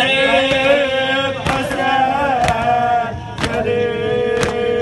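A man's voice in a Shi'a mourning chant (latmiya), singing long, wavering held notes over a sustained backing. From about a second and a half in, sharp strikes land about once a second under the voice.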